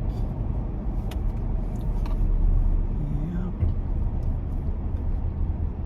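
Steady low road and engine rumble inside a pickup truck's cab while driving, with a few faint clicks.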